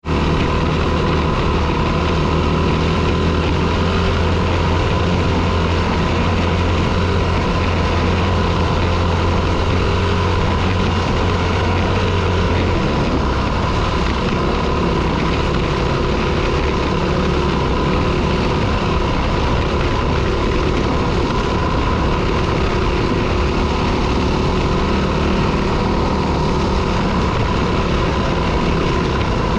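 Dirt bike engine running steadily, with a change in its low drone about halfway through.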